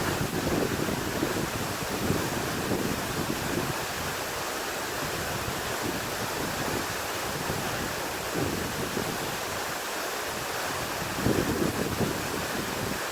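Steady rush of water, with wind buffeting the microphone in gusts.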